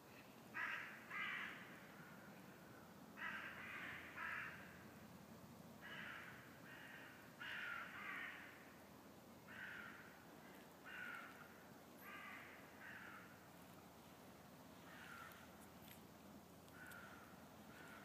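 A bird calling over and over in short calls, often in pairs, every second or two, growing fainter toward the end.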